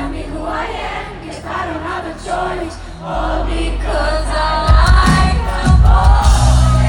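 Live pop concert music heard through a PA, with singing throughout. Heavy bass comes in loudly about five seconds in.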